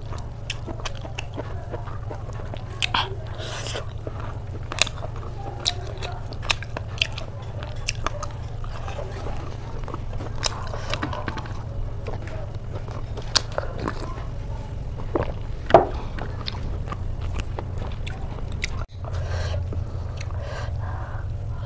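Close-miked mouth sounds of a person biting and chewing pork belly, with wet smacks and sharp clicks at an uneven pace, over a steady low hum. There is a brief break about nineteen seconds in.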